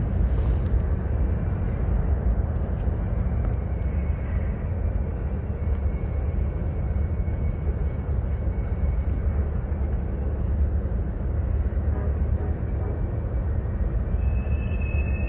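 Freight train rolling along the yard tracks at a distance: a steady low rumble.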